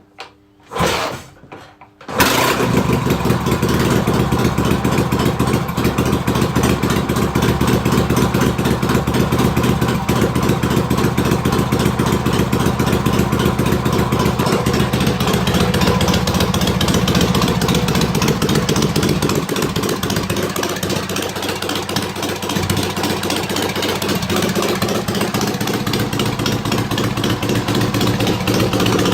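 Rebuilt Dnepr K750 flat-twin sidevalve motorcycle engine with oversize car pistons, on its first test run: it starts about two seconds in and then runs steadily.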